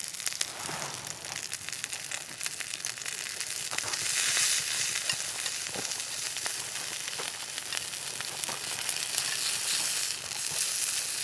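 Thick-cut beef steak and its dripping fat sizzling and crackling on a hot iron griddle, getting louder about four seconds in.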